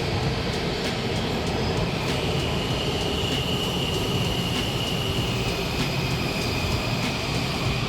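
A train running on rails with a steady rumble, and a high whine that comes in about two seconds in and drops slightly in pitch near the end.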